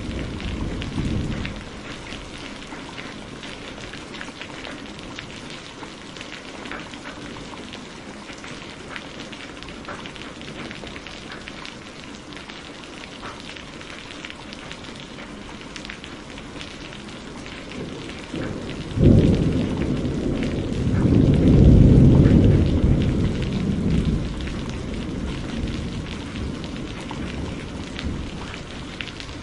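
Steady rain with fine pattering ticks, and thunder: a low rumble dies away in the first second or so, then about two-thirds of the way in a sudden clap breaks into a loud rolling rumble that fades over several seconds.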